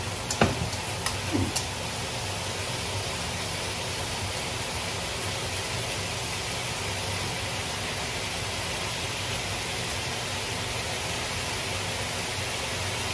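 Tomato wedges sizzling in a hot wok, a steady hiss. There are a few clicks and knocks in the first two seconds, the loudest about half a second in, as chopsticks and chicken pieces meet the pan.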